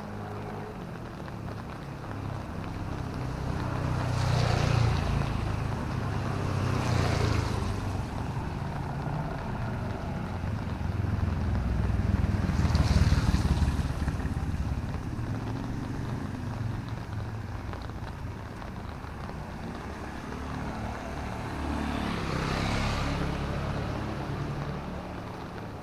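Motor vehicles passing one after another on a wet road: a low engine rumble, with tyre hiss that swells and fades as each one goes by, about four times.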